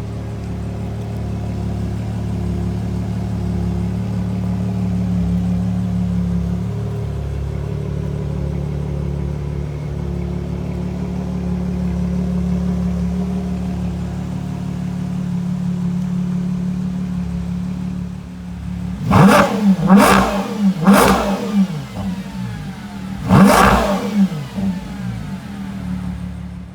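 Ferrari Purosangue's 6.5-litre naturally aspirated V12 idling steadily, then blipped hard four times in quick succession, starting near the end; each rev shoots up and falls straight back to idle.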